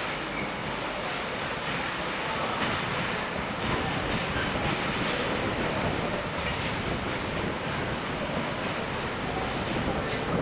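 Long freight train of wagons loaded with new rails rolling past: a steady rushing rumble of wheels on the track, with faint clicks now and then.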